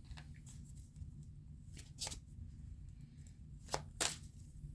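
Tarot cards being handled on a table: a few scattered soft clicks and snaps of the cards, two close together near the end, over a faint low hum.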